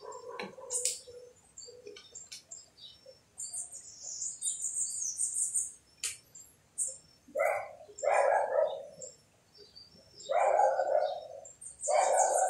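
Birds chirping, with high chirps throughout and louder, lower calls from about halfway through and again near the end; a few light clicks in between.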